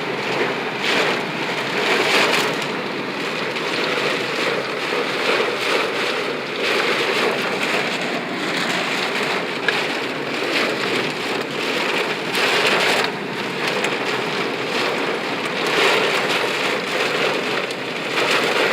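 Heavy rain pelting a moving car, heard from inside the cabin, with the wash of tyres on the wet road; the rush swells and eases every few seconds.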